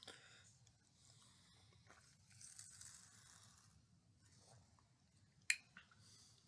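Near silence with faint handling noises: a soft rustle about two and a half seconds in, and one sharp click about five and a half seconds in.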